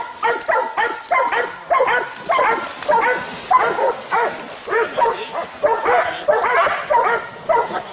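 Dogs barking in a rapid, steady series, about two barks a second, as they hold a cornered animal at bay in the water.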